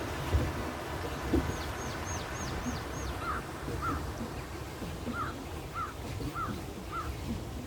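Birds calling: a quick run of five thin, high, falling notes, then a short arched call repeated about twice a second, over a steady low background rumble with two brief thumps in the first second and a half.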